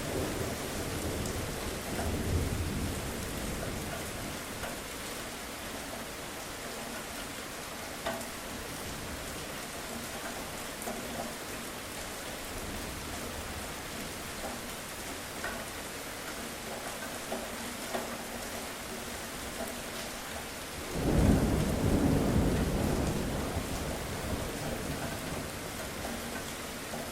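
Steady rain with thunder: a low rumble in the first few seconds, then a loud thunderclap about 21 seconds in that rolls on and fades over the next few seconds.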